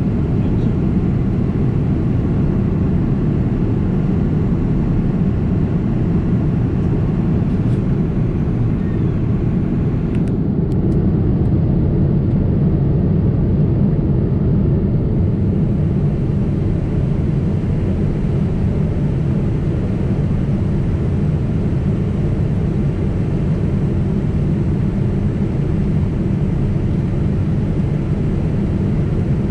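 Steady low rumble of Boeing 767 cabin noise in flight, the twin turbofan engines and airflow heard from a window seat, with a few faint clicks about a third of the way in.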